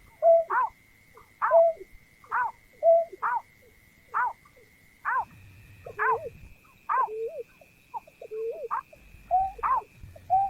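A bird the Vietnamese call nhát hao calls over and over, about two calls a second. Each call is a sharp down-slurred note followed by a lower note. A thin, steady high tone sounds under the calls throughout and shifts slightly higher about halfway through.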